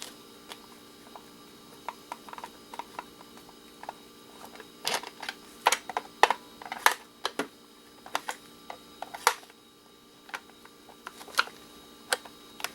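Irregular clicks and taps of a screwdriver and small plastic and metal parts as screws are taken out of an electronic device's casing, with a cluster of sharper knocks about midway.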